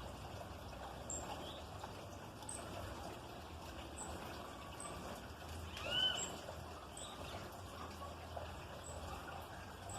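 Birds calling: faint, short, high chips repeat roughly once a second, and a louder arched call about six seconds in stands out over a steady background hiss.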